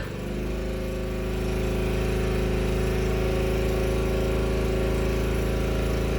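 A click as the air compressor is switched on, then the Predator generator's engine labours under the compressor's starting load: the pitch dips, then builds over a second or two into a steady, heavy hum. The generator is not able to get the compressor running.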